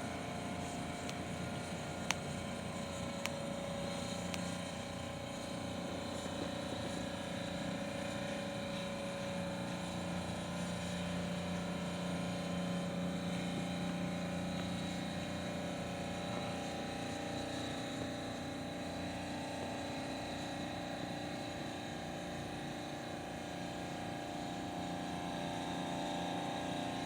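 Steady machine hum with several held tones over a low even noise, with a single faint click about two seconds in.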